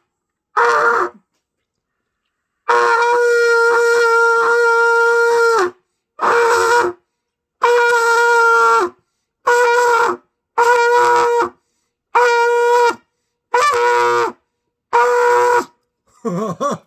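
Beginner blowing a trumpet: a run of separate notes on the same pitch with clean gaps between them, one long note of about three seconds and then a string of shorter blasts. One note near the end wavers and sags in pitch. It is a rough tone that the player himself calls a pig-squealing sound.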